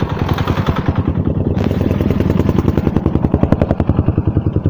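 Motorcycle engine running while riding, with a fast, even pulsing of the exhaust.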